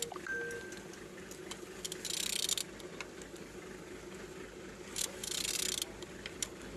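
Ratchet wrench clicking in two short bursts, about 2 and 5 seconds in, as the crankshaft of a Toyota 1ZR-FAE engine is turned over by hand, with scattered clicks in between. The engine turns freely.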